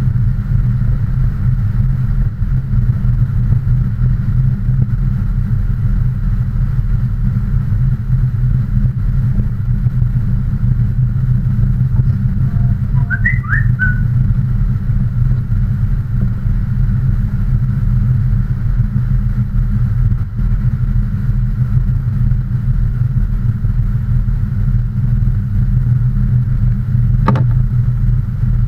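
A steady low engine rumble that holds an even pitch and level throughout, with no revving. A brief high chirp comes about halfway through, and a single click near the end.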